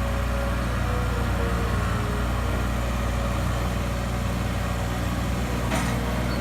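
Steady engine and road hum of a car heard from inside the cabin while driving, with one short knock near the end.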